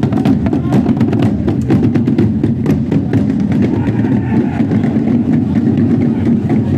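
Procession drums beating a fast rhythm of sharp strokes over a steady low band sound; the strokes thin out about three seconds in.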